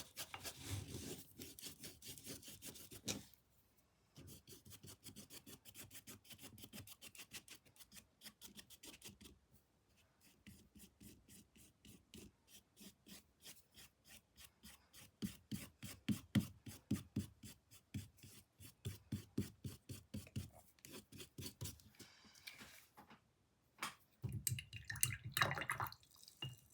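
Paintbrush scrubbing paint across a canvas in quick, even back-and-forth strokes, faint, with a couple of short pauses and a louder run of strokes near the end.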